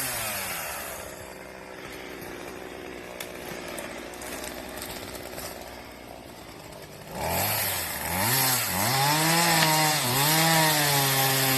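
Chainsaw felling a big spruce: the engine winds down to a quiet idle at the start, then about seven seconds in it is revved up again in rising and falling surges as the cut is finished.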